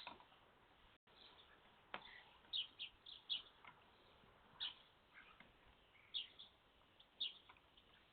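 Young starlings at a bird feeder giving short, sharp chirps at irregular intervals, some in quick pairs.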